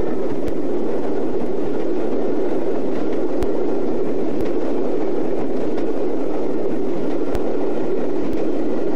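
Train running along the track: a steady low noise with a few sharp clicks scattered through it.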